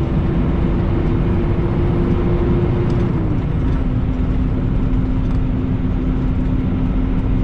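Semi-truck diesel engine running under way, a steady rumble with a droning tone whose pitch drops a step about three seconds in as the engine speed falls.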